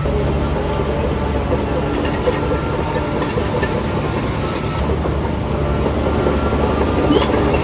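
Shantui DH17C3 crawler bulldozer's diesel engine running steadily, with a continuous rattling clatter from the machine as it works.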